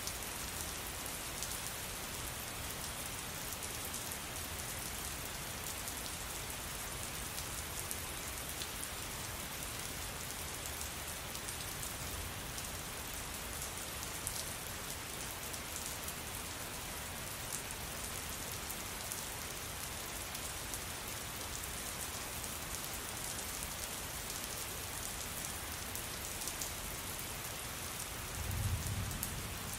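Steady rain falling, dense pattering of drops on a surface, with a brief low rumble near the end.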